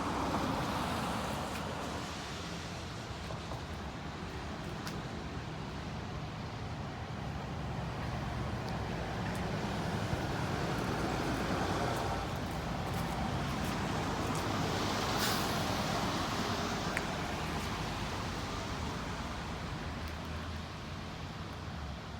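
Steady road-traffic noise of vehicles going by, swelling a little toward the middle and easing off near the end.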